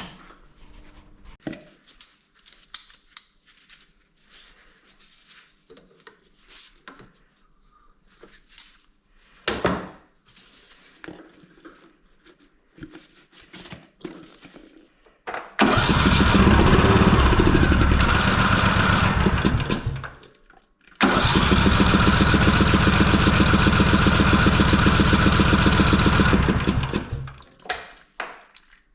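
The Briggs & Stratton engine of a Husqvarna Rider 213c riding mower turning over loudly in two spells of about five and six seconds with a short break between them, after some light clicks and knocks.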